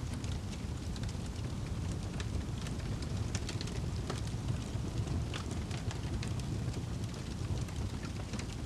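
Wood fire crackling, with irregular sharp pops and ticks over a steady low rumble.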